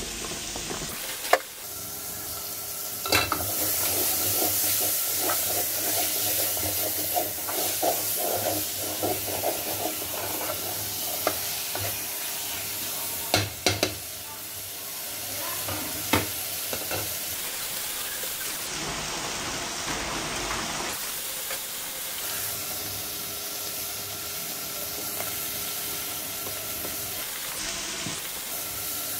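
Shim (hyacinth) bean seeds sizzling as they fry in masala in an aluminium pot, with a spatula stirring and scraping them around and a few sharp knocks against the pot. A faint steady hum runs underneath.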